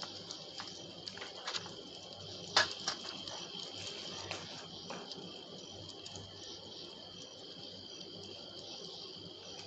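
Crickets chirping steadily in a constant high trill, with a few scattered soft clicks over it; the sharpest click comes about two and a half seconds in.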